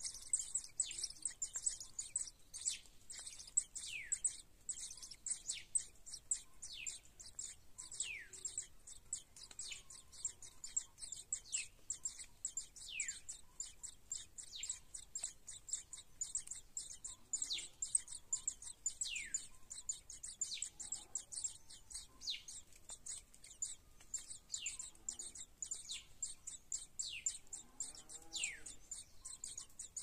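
Birds chirping: a dense, unbroken run of very high, rapid chirps, several a second, with a lower note sliding downward in pitch every few seconds.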